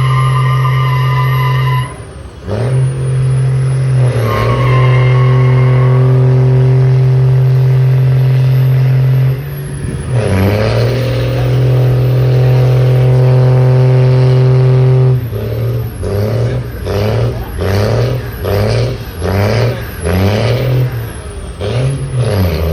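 Truck engine held at high, steady revs during a burnout, with a high squeal over it in the first few seconds. The revs dip briefly twice, and in the last third the engine is blipped up and down over and over, a little more than once a second.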